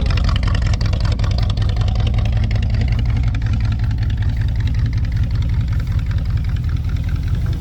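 1965 Chevrolet C10 pickup engine idling steadily with an even low rumble, warmed up to running temperature.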